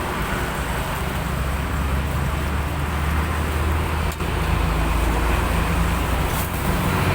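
Steady low hum of a motor vehicle engine with road traffic noise, getting a little louder about four seconds in.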